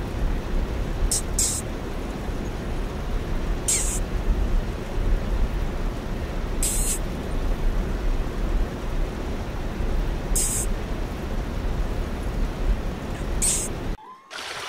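Mink hissing in about six short, high bursts spaced a few seconds apart, over a steady low rumbling background noise.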